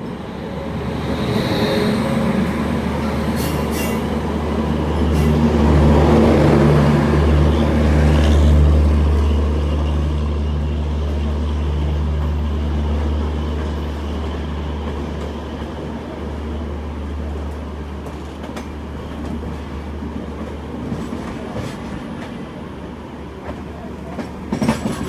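Sampoorna Kranti Express passenger train running on the track, heard from aboard: a steady low rumble that swells in the middle and then eases off, with a few sharp wheel clicks near the end.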